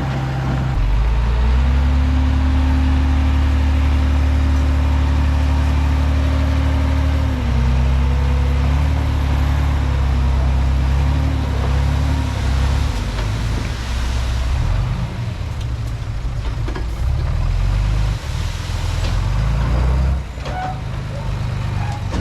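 Komatsu D31P bulldozer's diesel engine running under load, stepping up about a second in. A steady whine sits over the engine until about halfway, after which the engine runs more unevenly.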